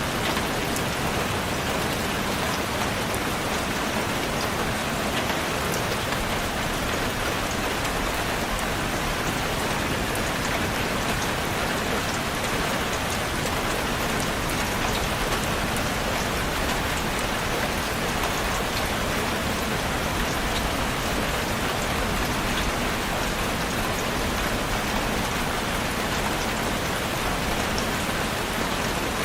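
Steady rain falling, with a dense, even patter of raindrops hitting a surface and fine individual drop ticks scattered through it.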